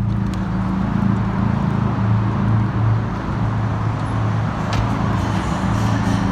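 Big-turbo Audi A4 engine running steadily at a held engine speed, a loud, even drone with a rough edge.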